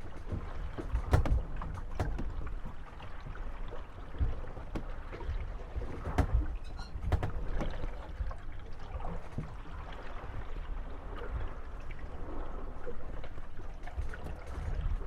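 Moored wooden gondolas rocking on small waves, their hulls knocking and creaking against each other over a steady wash of water. The knocks come irregularly, several sharp ones scattered through.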